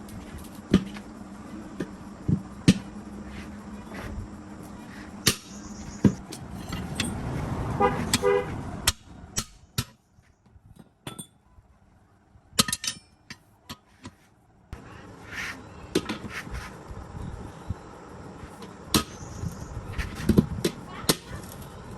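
Irregular metal knocks and clanks from tool work on a tractor tyre, with a brief horn-like tone a little past the middle.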